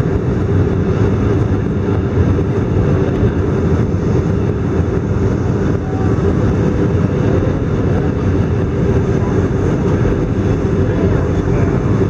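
Steady engine and airflow noise inside the cabin of an Airbus A319 airliner, a constant low rumble with no distinct events.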